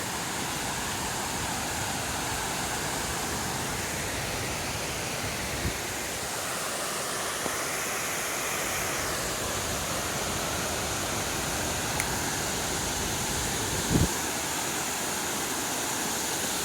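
Steady rushing of creek water running over rocks, a continuous even hiss. A few faint clicks and one short dull thump near the end sit on top of it.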